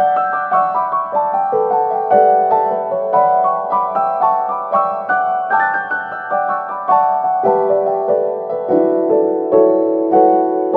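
Piano music: a continuous flow of single notes, several a second, over held lower notes.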